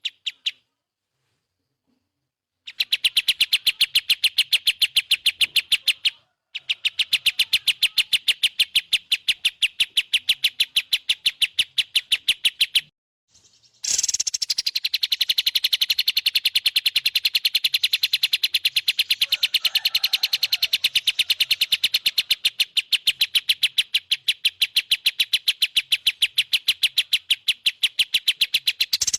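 White-rumped shama (murai batu) calling in a rapid run of evenly repeated sharp chirps, several a second, in long stretches broken by brief silent pauses near the start, about six seconds in and about thirteen seconds in.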